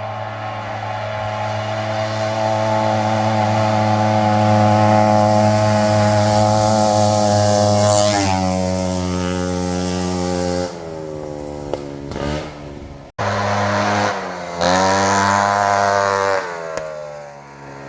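Racing riding lawn mower's small engine running hard at a steady high pitch, stepping down in pitch about eight seconds in and winding down soon after. After a brief break it revs up again and then slows.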